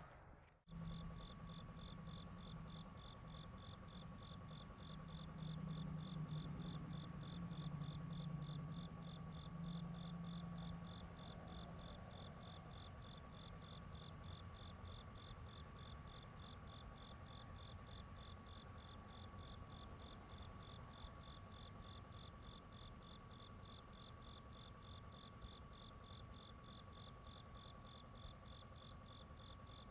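Night insects, crickets, chirping in a fast, even rhythm with a steady thin high drone beneath, all faint. A low rumble swells during the first dozen seconds, then fades.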